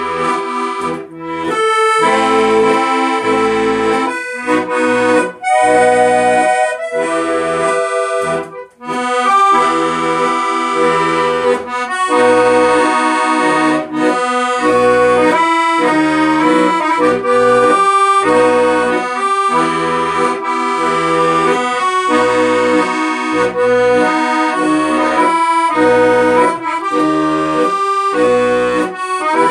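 Accordion music: a melody of sustained reedy notes over rhythmic bass notes and chords, in a traditional style.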